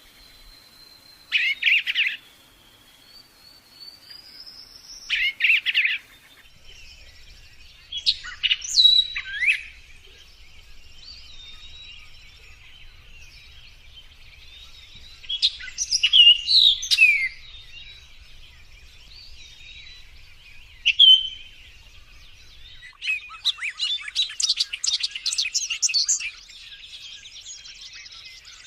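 A songbird singing in short loud phrases of whistles and trills every few seconds, breaking into a fast run of rapid chirps near the end.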